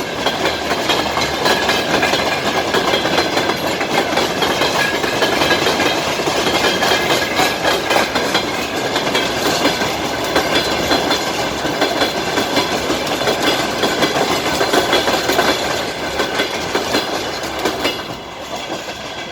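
Freight train wagons rolling past, wheels clicking steadily over the rail joints; the noise eases off near the end.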